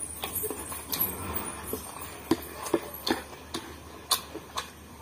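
A person eating rice and curry by hand: wet chewing with sharp lip-smacking clicks, two or three a second at uneven spacing, a few of them louder a little past the middle.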